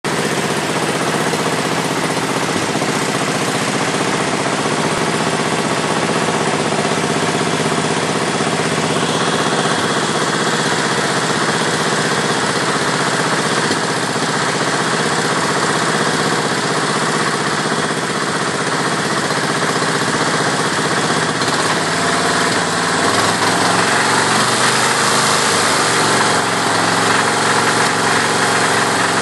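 Kohler K321 single-cylinder engine in a John Deere 314 lawn tractor running steadily with a rattle, freshly rebuilt. The owner reports that it also misfires occasionally. Its sound shifts slightly about nine seconds in and grows a little louder near the end.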